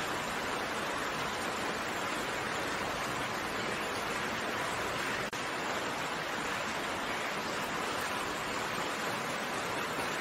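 Steady, even rain noise, with a momentary dip in level about five seconds in.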